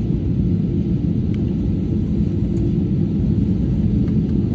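Steady low rumble of cabin noise inside an Airbus A320, from the engines and air systems, with no change in pitch or level.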